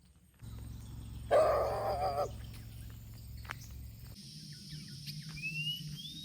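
Outdoor ambience over a low steady hum, with a loud wavering animal call lasting about a second, starting about a second in, and two short rising bird chirps near the end.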